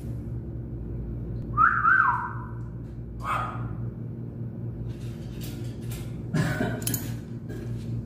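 A caged pet bird gives one loud whistle with quick up-and-down slides about a second and a half in, then a few short harsh, noisy calls. A steady low hum runs underneath.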